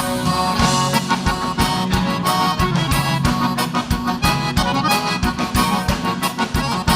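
Live gaúcho band playing an instrumental passage of a vaneira: accordion carries the melody over a bass line and a steady, quick drum beat.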